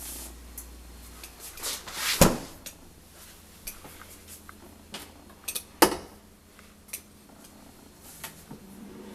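Kitchen cabinet and appliance doors being handled: two loud knocks, about two seconds and about six seconds in, with lighter clicks and clatter between them.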